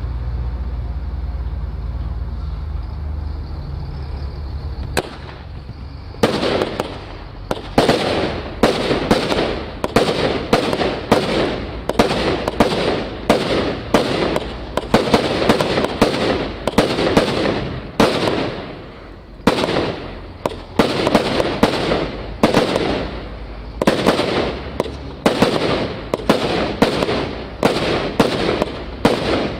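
A 100-shot, 25 mm calibre firework cake firing, its shots coming in quick succession at roughly two a second with a few brief pauses. Before it starts, about six seconds in, there is a low steady rumble with a single sharp click.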